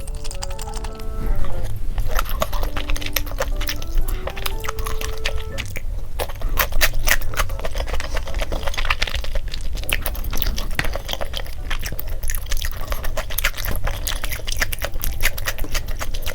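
Close-miked chewing of food, a dense run of small wet clicks and crunches. A simple cute background melody plays over the first five seconds or so.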